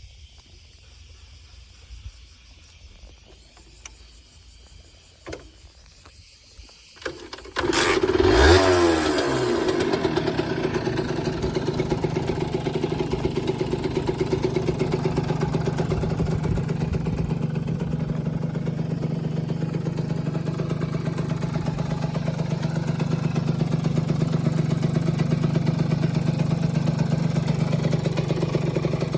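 Honda NSR50's two-stroke single-cylinder engine starting about seven seconds in, after a few faint clicks: it catches with a quick rev, then settles into a steady idle.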